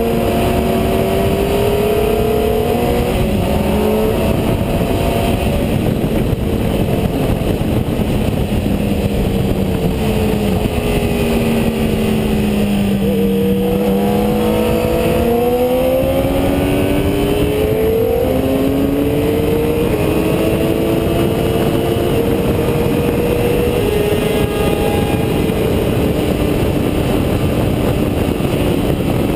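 Motorcycle engine on track, heard onboard with heavy wind noise; its pitch sinks and climbs several times as the bike slows for corners and drives out, with short steps in pitch at gear changes.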